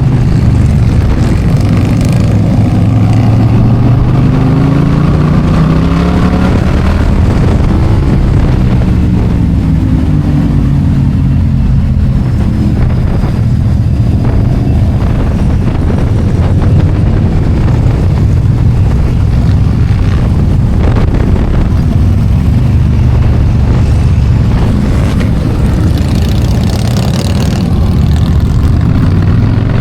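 Motorcycle engine running under way, its pitch rising and falling with throttle and gear changes, over steady wind rush.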